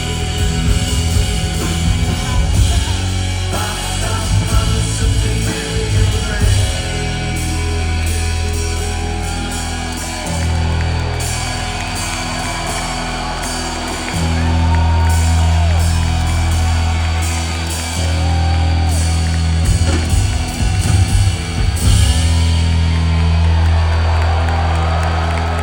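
Live rock band playing loudly, with heavy held bass notes that change every few seconds under a dense wash of guitar and cymbals.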